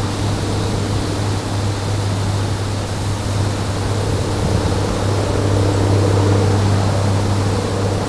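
Steady rushing noise over a constant low hum.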